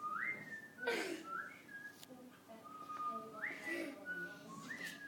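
Three clear whistled phrases, each a low held note that glides up to a higher one and then steps down, with a short sharp sound about a second in.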